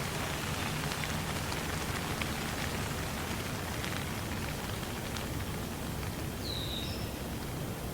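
Steady rain falling, an even hiss with scattered faint drop ticks. A bird gives one short, high, falling chirp near the end.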